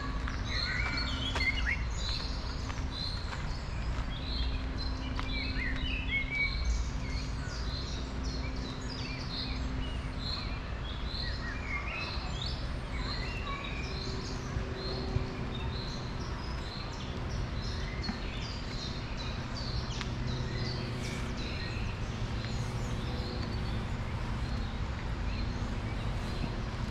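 Birds chirping and calling, one repeating a short high note about once a second, over a steady low background rumble.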